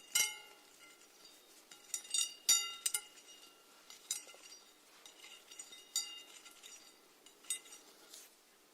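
Snails making irregular small, crisp clicks up close, each with a short glassy ring. The clicks come thickest and loudest in a cluster about two to three seconds in.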